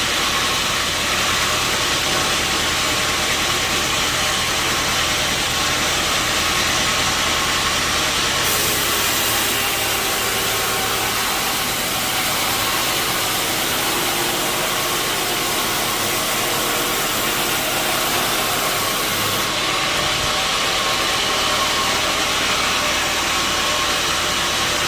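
Sawmill machinery running steadily: a constant engine-like drone under a loud, even hiss. The high hiss grows brighter for about eleven seconds in the middle.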